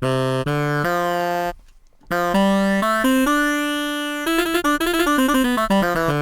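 Sampled saxophone from an SF2 SoundFont played on a keyboard. It plays a held chord, stops briefly, then runs through single notes, one of them held for about a second, into a quick passage, and ends on another chord.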